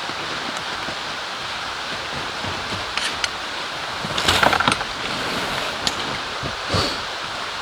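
Steady rush of rain and a flowing river, broken by a few brief rustles and clicks around the middle.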